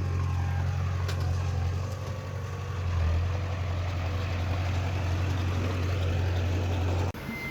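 Heavy diesel engine of earthmoving machinery, a bulldozer or dump truck, running steadily with a deep drone. There is a faint click about a second in, and the drone cuts off suddenly near the end.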